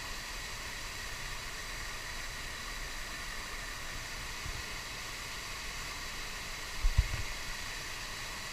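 Steady rushing water of a waterfall swollen by heavy rain. A low thump on the microphone about four and a half seconds in is followed by a louder double thump about seven seconds in.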